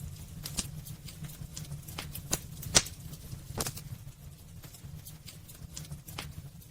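Wood fire burning in a fireplace, with irregular crackles and sharp pops over a low steady rumble of the flames. The loudest pops come in the first few seconds.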